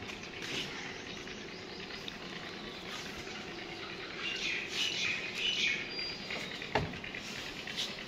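Birds chirping in short high calls in the background, clustered a little past the middle, with a single dull knock near the end.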